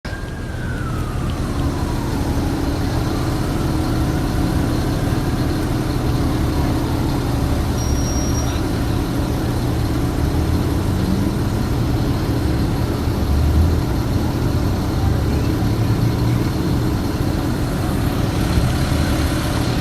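Steady rumble of road traffic and running vehicle engines, with a faint falling siren wail in the first two seconds.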